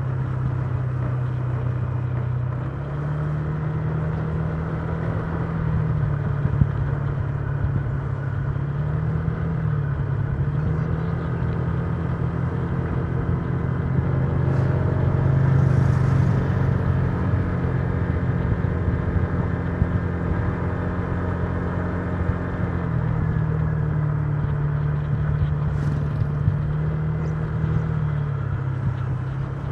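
Honda Giorno 125 scooter's single-cylinder engine running while riding, its note stepping up and down with the throttle several times and getting louder around the middle, over steady wind and road noise.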